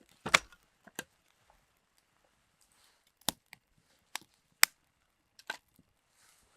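A series of about six sharp, irregularly spaced knocks, the loudest about a third of a second in and at about four and a half seconds.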